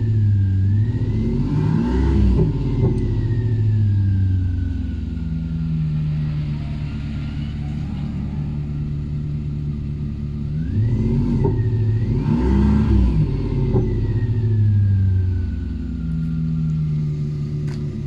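Opel Astra engine breathing through a loud aftermarket exhaust, idling and blipped: a rev about two seconds in, then two more about eleven seconds in, each swelling and dropping back to idle.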